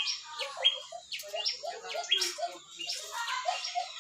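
Parrot chirping and chattering: a quick run of short, sharp high calls, two or three a second, over softer lower chatter.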